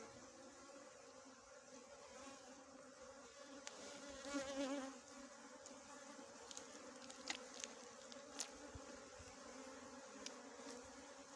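Small honeybees buzzing steadily around their disturbed nest, with one bee swelling louder as it passes close about four seconds in. A few faint sharp clicks come later.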